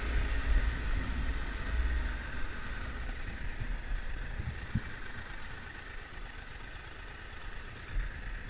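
Triumph Tiger 1200 three-cylinder motorcycle engine running steadily, with a low rumble, growing somewhat quieter through the middle.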